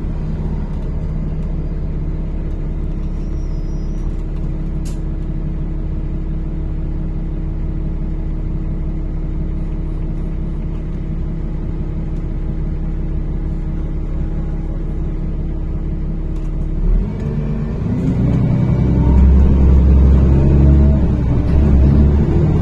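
NefAZ-5299 city bus running between stops, heard from inside the cabin: a steady engine and drivetrain hum. About seventeen seconds in, the engine note rises and grows louder as the bus accelerates.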